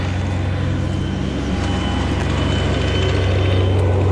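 Crane truck's engine running steadily: a low, even drone, with a faint thin high tone in the middle.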